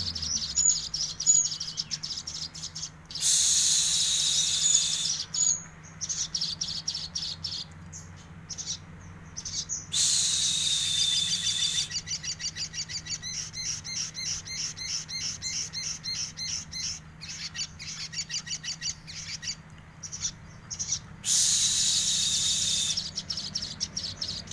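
Little spiderhunter singing continuously: high, dense trills lasting a couple of seconds, three times, alternating with long runs of rapid, evenly repeated sharp chips. A faint steady low hum runs underneath.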